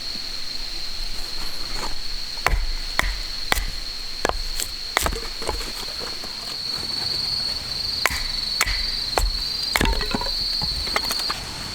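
Sharp knocks of wood being chopped, coming irregularly in runs of a few strokes about half a second apart. A steady high-pitched insect trill runs underneath.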